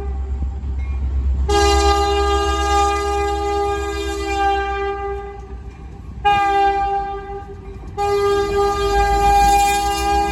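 Air horn of CN EMD SD60 locomotive 5404 sounding a long blast, a short blast and another long blast, the closing part of the long-long-short-long grade-crossing signal, over the low rumble of the passing locomotive.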